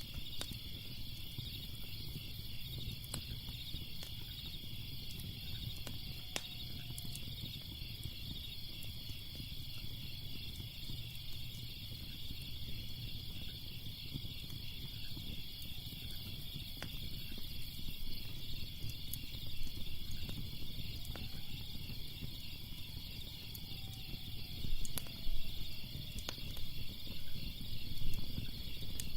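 Crickets chirping in a steady, continuous pulsing trill over a low rumble, with scattered sharp crackles from a fire that grow louder and more frequent near the end.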